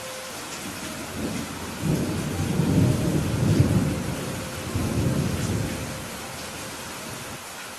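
Steady rain with a low rumble of thunder that builds about two seconds in, peaks, and fades out a few seconds later.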